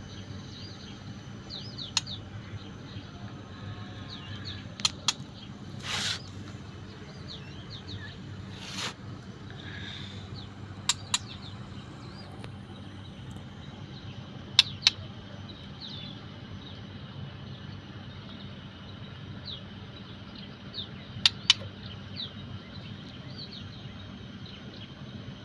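White-rumped shama giving short high chirps, one every second or two, with sharp clicks, mostly in pairs, several times and a steady low hum underneath.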